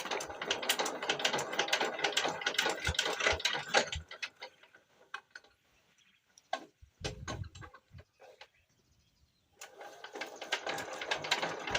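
Rapid, irregular metallic clicking and rattling. It stops about four seconds in, leaving a few scattered clicks, and starts again near the end.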